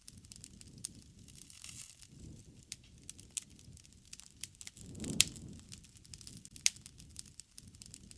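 Wood campfire crackling, with scattered sharp pops over a low rush of flame that swells about five seconds in.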